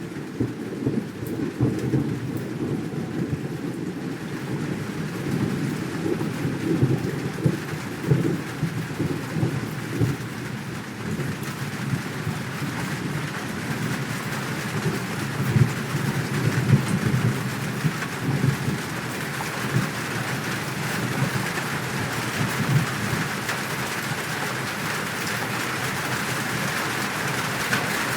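Steady rain falling with rolling thunder. The thunder rumbles unevenly through most of the stretch, and the hiss of the rain grows louder toward the end.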